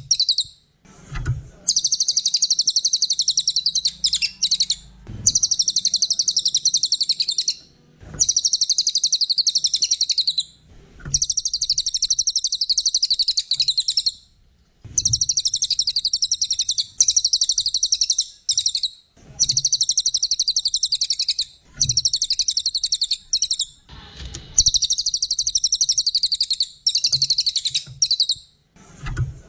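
A small songbird, the cililin, singing loud, high, rapid trilling phrases of a few seconds each, about ten in a row with short pauses between them.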